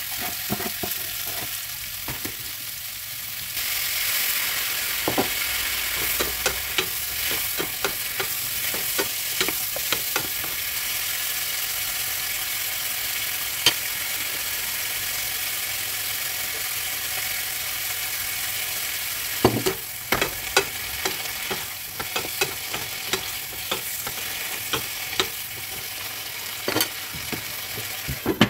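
Courgette and onion slices sizzling in oil in a non-stick frying pan, with a steady hiss that gets louder about three and a half seconds in. Scattered clicks and knocks run through it as the vegetables are stirred in the pan, with a sharper knock about two-thirds of the way through.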